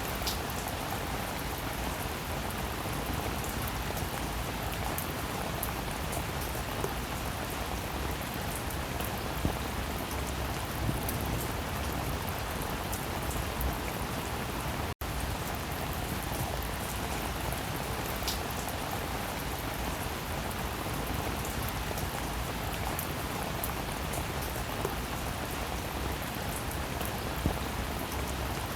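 Steady rainfall with scattered louder individual drop hits. The sound breaks off for a split second about halfway through.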